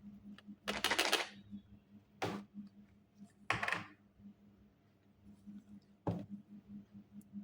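Three short scratchy strokes of a drawing tool across paper, followed by a single sharp tap about six seconds in, over a faint steady low hum.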